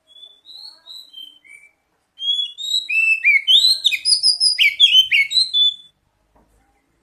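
Oriental magpie-robin singing: a few soft, separate whistled notes, then from about two seconds in a loud, rapid run of varied whistles and chirps lasting about four seconds.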